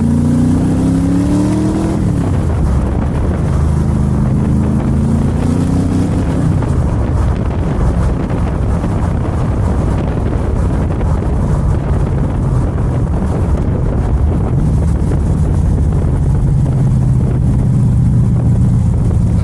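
LS7 7.0-litre V8 of a Cobra replica accelerating: the engine note rises, drops at an upshift about two seconds in, rises again and drops at a second upshift about six seconds in, then settles into a steady cruise.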